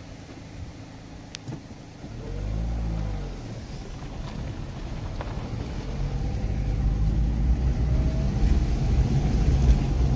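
Car driving, a low engine and road rumble that grows louder from about four seconds in. About two seconds in there is a brief engine note that rises and falls.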